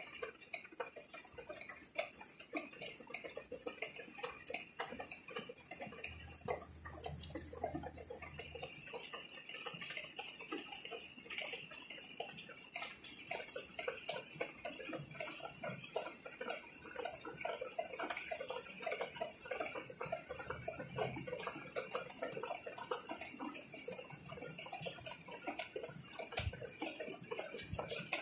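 Rain falling on potted caladium plants: a dense, irregular patter of drops striking the leaves and plastic pots, over a steady high hiss that grows stronger about nine seconds in.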